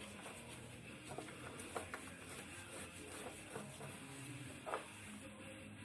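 A few faint, scattered metal clicks and taps of motorcycle brake caliper parts being handled and fitted during reassembly, over a steady hiss.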